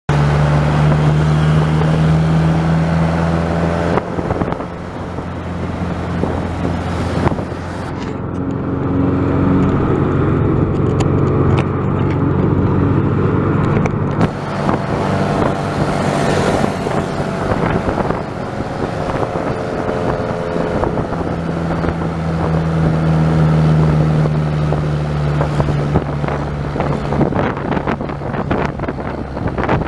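A motor vehicle running along a road, with wind noise on the microphone. Its low steady engine tone drops away about four seconds in and returns for a while near the end.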